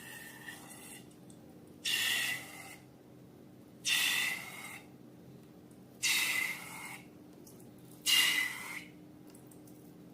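Four short hissing puffs of air about two seconds apart, each with a squeaky whistling tone.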